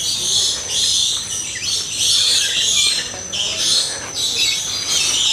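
Many birds in an aviary calling over one another. The high, shrill chirps and squawks overlap and swell and fade about once a second.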